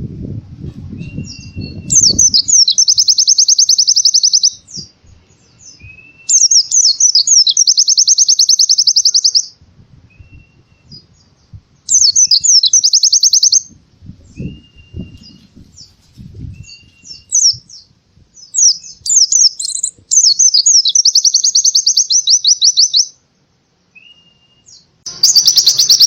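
A pleci (white-eye) singing fast canary-style trills, the 'tembakan' song, in four long bursts of two to three seconds each. Short rising whistles come in the gaps, with faint low knocks here and there.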